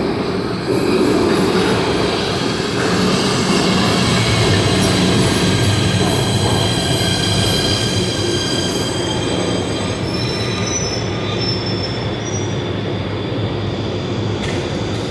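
PATH rapid-transit train running through the station, its steel wheels squealing on the rails with several high whining tones over the rumble of the cars.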